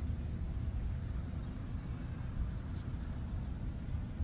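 Steady low outdoor rumble with no speech, and one faint click near three seconds in.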